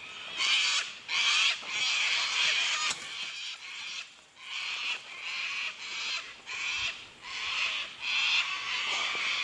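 Birds calling: a steady run of harsh, rasping calls, each about half a second long, repeating once or twice a second, cutting off abruptly at the end.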